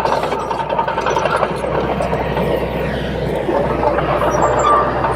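Komatsu D21P bulldozer's diesel engine running steadily, with a thin steady whine that grows clearer in the second half.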